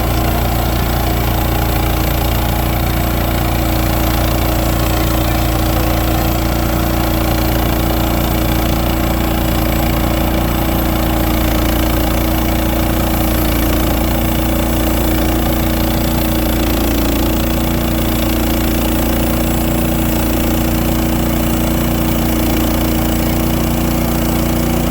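Frontier OS31 portable band sawmill's gas engine running steadily.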